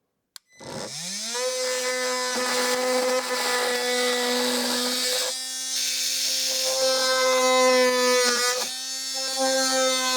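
Ryobi oscillating multi-tool switched on with a click, its motor spinning up within about a second to a steady buzzing tone, then cutting the motorhome's plastic trim cover. The tone wavers and dips briefly twice as the blade bites into the plastic.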